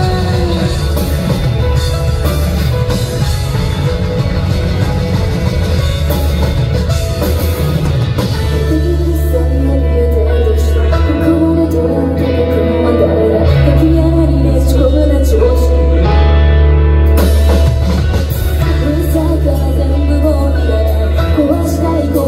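A live rock band plays a J-rock song at concert volume, with guitar, bass, drums and keyboard and a heavy low end. A female lead vocal comes in about a third of the way through.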